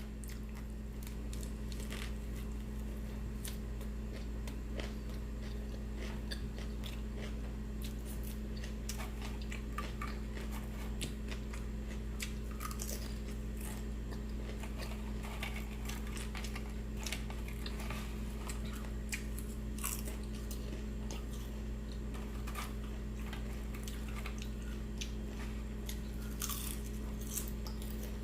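A person eating close to the microphone: chewing with scattered crisp crunches, over a steady low hum.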